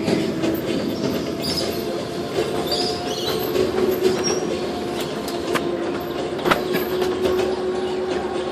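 Park ride vehicle in motion: a steady motor hum with a constant drone, and scattered sharp clicks and rattles from the running gear, loudest about halfway through and again a second later.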